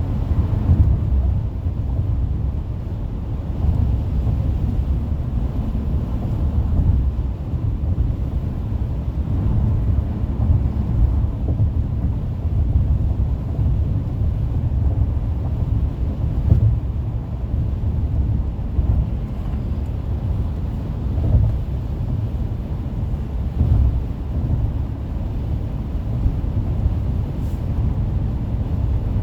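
Car driving at freeway speed: steady low road and tyre rumble with small swells in loudness.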